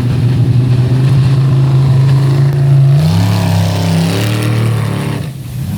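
Racing jet boat's engine running hard at high revs, its pitch creeping up and then falling about three seconds in, and briefly quieter near the end.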